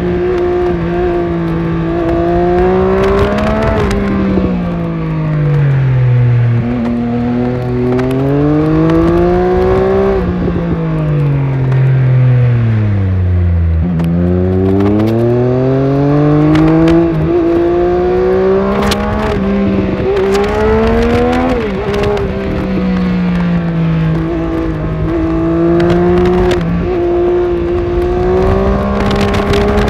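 Triumph Speed Triple 1200RS's 1160 cc three-cylinder engine heard from onboard while riding, with wind noise over it. Its note drops away twice as the bike slows, lowest about halfway through, then rises again under acceleration and holds fairly steady through the second half.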